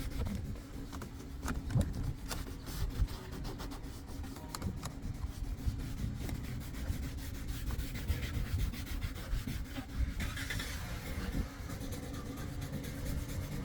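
Scrubbing and wiping a plastic car interior door panel being cleaned with interior cleaner: continuous rubbing with irregular scratchy strokes.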